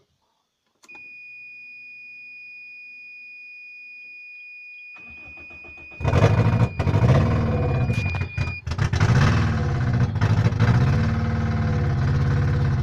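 A steady high electronic warning tone sounds for several seconds. Then the car engine cranks for about a second and starts about six seconds in. It is held revving up and down near 2,000 rpm, because it will not idle on its own.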